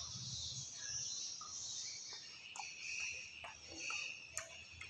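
Close-up chewing of crunchy raw green mango, with irregular sharp crunches and wet mouth clicks.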